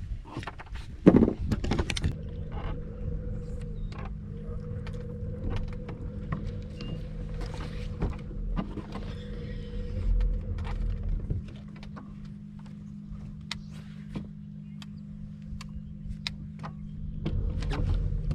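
Bass boat's electric trolling motor humming steadily, with scattered clicks and knocks of handling on the boat, a sharp one about a second in.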